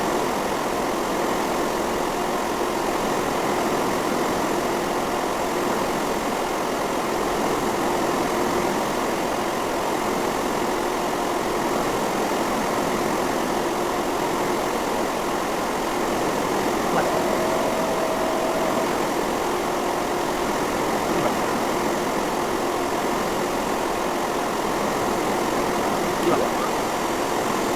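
Antonov An-225's turbofan engines running steadily: a continuous even rush of noise with a faint steady hum under it, and a brief higher tone a little past the middle.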